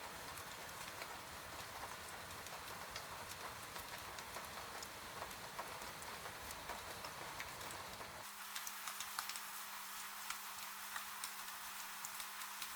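Rain falling, a steady hiss with many individual drops ticking and pattering on a surface. About eight seconds in, the low rumble under the rain cuts out abruptly and a faint steady hum comes in, while the drops go on.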